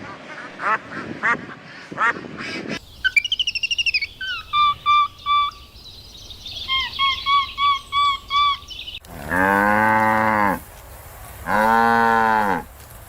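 Ducks quacking in quick short calls, then after a cut a bird gives two runs of short, repeated higher calls, then a cow moos twice in long, low calls.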